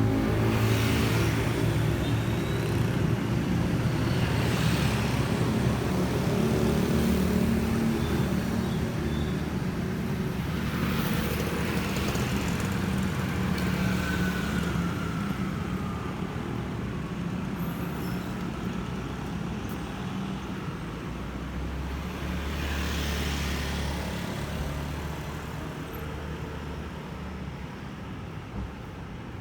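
Yamaha NMAX scooter's engine running on the move, with road and wind noise and surrounding traffic. A few brief swells of noise come and go, and the whole sound gradually gets quieter toward the end.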